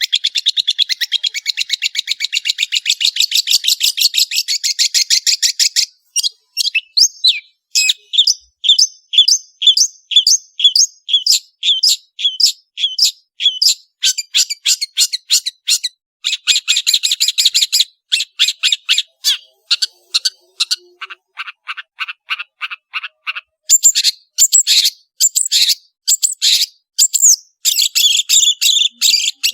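Long-tailed shrike (cendet) singing continuously: a fast, dense trill of high notes, then series of separate repeated notes, with the phrase changing every few seconds.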